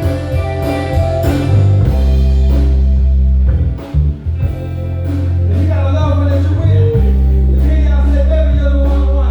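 Live band playing: a loud, sustained electric bass line under drum kit strokes, with guitar and keyboards above.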